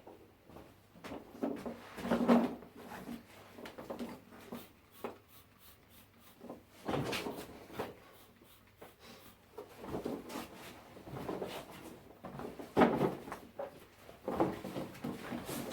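Scattered knocks, bumps and handling noises in a small room, with a few louder uneven bursts about two, seven, thirteen and fourteen and a half seconds in.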